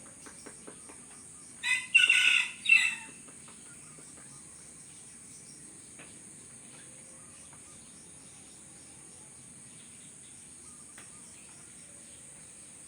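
A loud, harsh bird call about two seconds in, lasting just over a second in three broken parts, over a steady high-pitched hiss.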